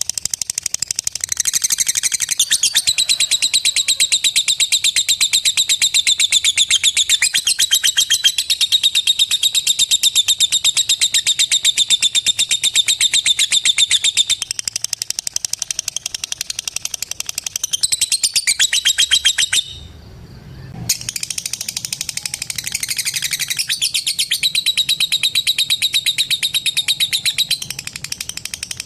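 Female lovebird giving its long, very fast chattering trill (the 'ngetik' or 'ngekek' call), a rapid run of high clicks. It breaks off for about a second twenty seconds in, then starts again.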